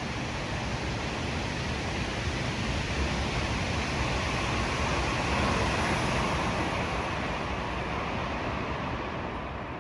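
A KTX high-speed train going by along the tracks: a steady rushing noise that swells to its loudest about halfway through and then eases off.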